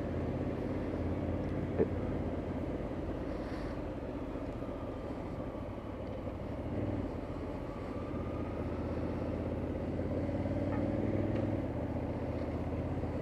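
Motorcycle running on the move, a steady engine and road hum whose pitch slowly shifts up and down, with a small click about two seconds in.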